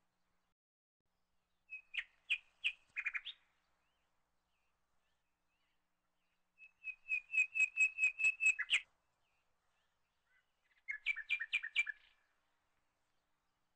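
A bird chirping in three short bouts of rapid, repeated high notes. The middle bout is the longest and loudest, a quick series of about five notes a second.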